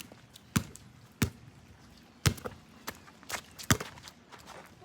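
Basketball being dribbled on a wet court: a series of sharp, irregularly spaced bounces.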